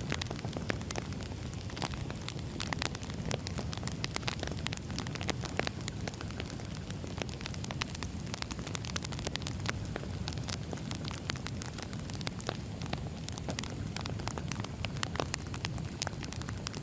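Burning firewood crackling: many sharp pops and snaps, several a second and irregular, over a steady low sound of the fire.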